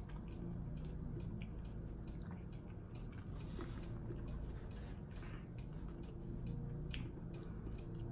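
A person chewing a mouthful of teriyaki noodles close to the microphone: soft wet mouth sounds with many small irregular clicks.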